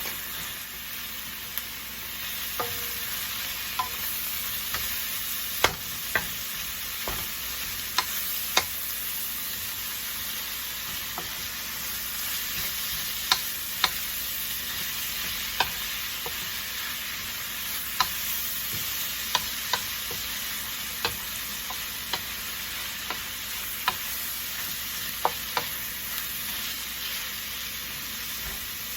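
Shredded chicken with garlic and onion sizzling in a frying pan as it is sautéed, with a steady hiss. A spatula stirs it, clicking and scraping against the pan at irregular moments.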